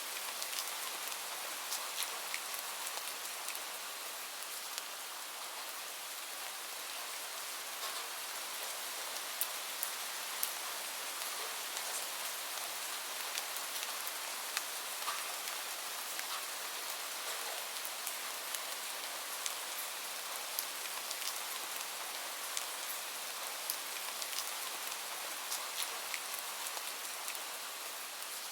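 Steady gentle rain mixed with a crackling wood fire: an even hiss of rain with frequent short, sharp crackles scattered through it.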